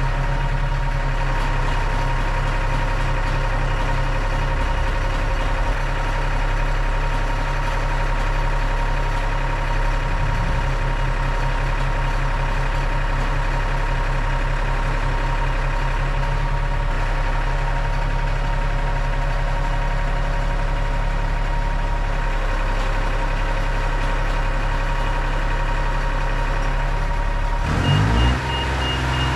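Heavy diesel engine running steadily at idle with a steady whine over it, as machinery is being unloaded from a truck. Near the end the engine note shifts quickly and a vehicle motion alarm starts beeping.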